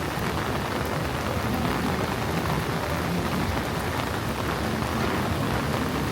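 Heavy rain pouring steadily, a dense even hiss with a low rumble beneath it.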